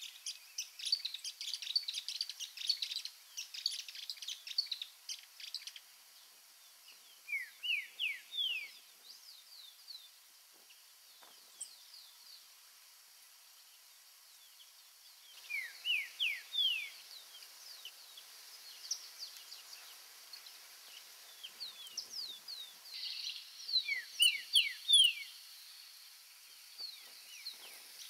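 Green-winged saltator singing: short phrases of quick downslurred whistles, repeated every several seconds. Thinner, higher chirps of other birds fill the first few seconds.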